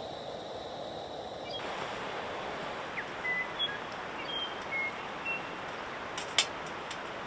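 Steady outdoor rushing noise, like wind, with several short high chirps in the middle and a few sharp clicks near the end.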